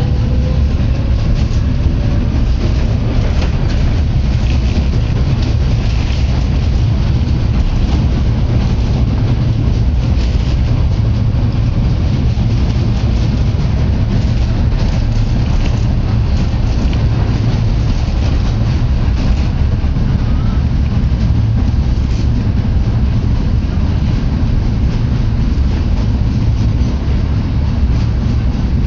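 Steady low rumble of a vehicle in motion, with a faint rising whine near the start and light scattered clicks and rattles.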